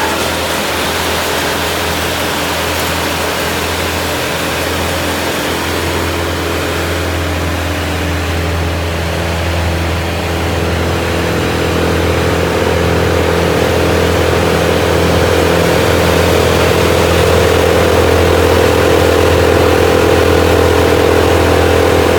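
Tree chipper's engine running steadily under a haze of machine noise, growing louder about halfway through.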